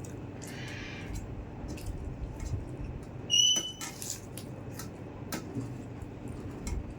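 Eating sounds: chewing, with small clicks and taps of food being handled on a plate, and a short high squeak about three seconds in.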